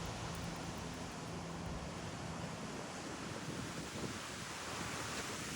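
Strong gusty wind blowing, with wind buffeting the microphone.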